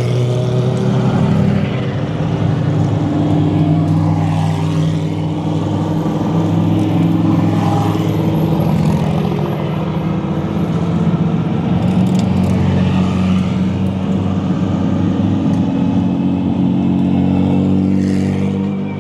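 Race car engines running at low, steady revs as the cars crawl by at parade pace, the engine note shifting in pitch a few times.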